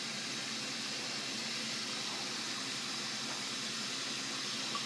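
Bath tap running, a steady rush of water pouring into the bath.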